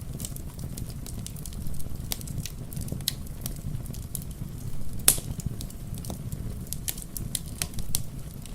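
Wood fire crackling, with irregular sharp pops and snaps and one louder pop about five seconds in, over a steady low rumble.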